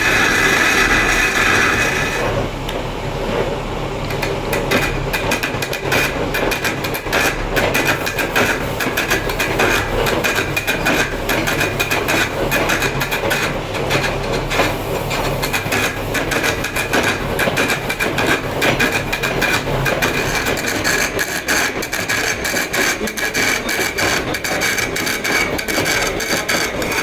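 Stone being worked with hand tools: a dense, irregular run of sharp tapping and scraping strokes. A power tool's whine fills the first two seconds, then drops away, and a fainter whine carries on under the strokes.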